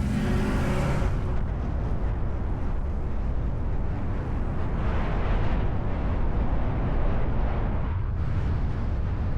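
Vehicle engine running with a loud, low rumble; a steady engine tone over it fades out about a second in.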